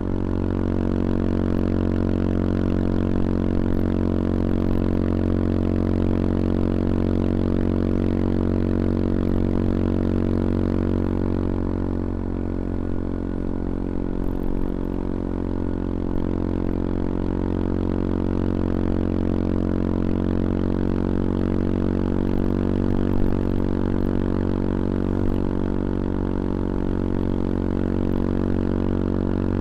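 CFMoto Papio XO-1 motorcycle's small single-cylinder engine running steadily at an even cruising speed, its pitch changing only slightly, while the bike is ridden.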